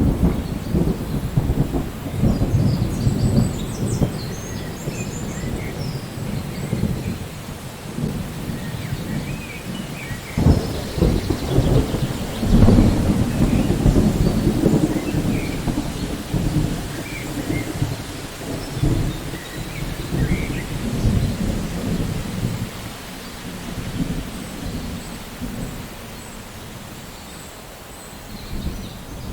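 Rain falling with thunder rumbling, a long rolling rumble that swells and ebbs, loudest around the middle and dying down near the end.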